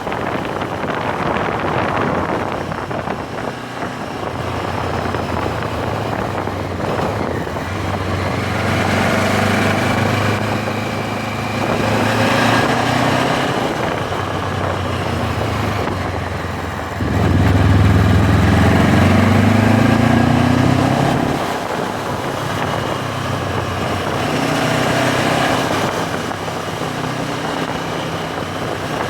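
MZ 1000 motorcycle's parallel-twin engine running on the move, rising in pitch as it accelerates several times. It is loudest in one strong pull about two-thirds of the way through, with wind noise over the microphone.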